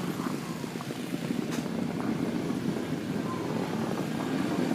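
A car's engine running steadily as the car is driven slowly through snow.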